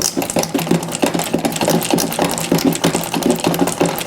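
Rapid, even mechanical clicking from a hand tool working a fastener loose, about seven or eight clicks a second.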